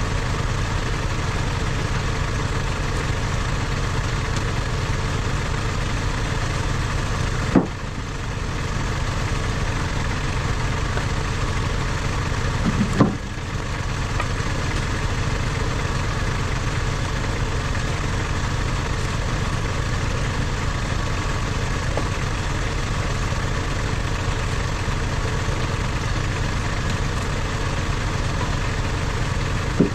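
Engine running steadily at a constant speed, broken by two short sharp knocks with a brief dip in level, about seven and thirteen seconds in.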